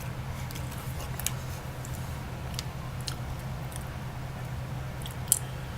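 Someone chewing crunchy seasoned kale chips: scattered sharp crunches, the sharpest about five seconds in, over a steady low hum.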